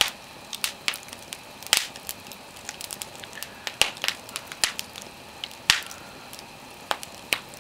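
Wood fire crackling, with irregular sharp pops and snaps over a low steady hiss.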